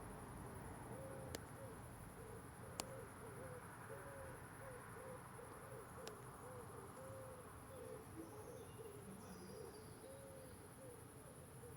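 A bird's low hooting calls, short notes repeated in a steady series, over a faint high insect chirring. A few sharp clicks sound in the first half.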